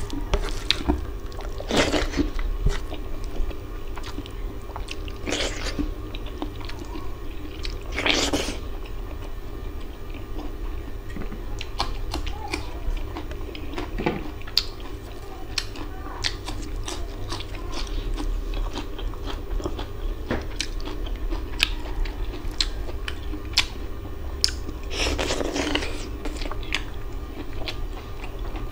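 Close-miked eating sounds: wet chewing and biting while eating curry and rice by hand, with small clicks throughout and four louder crunches, in keeping with crisp fried papad being bitten.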